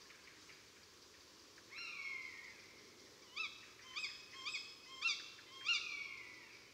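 Bird calls over faint steady background hiss: one long falling call about two seconds in, then a run of short, clear rising calls about every half second, ending with another long falling call.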